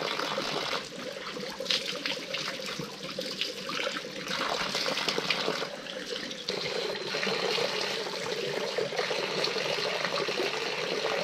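Spring water running and splashing steadily in a small stream.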